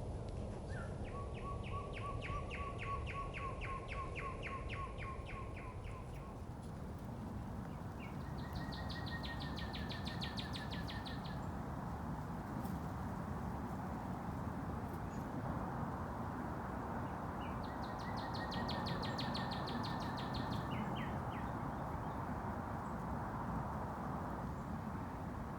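A songbird sings three long, rapid trills a few seconds each, the first lower in pitch than the other two, over a steady low background noise.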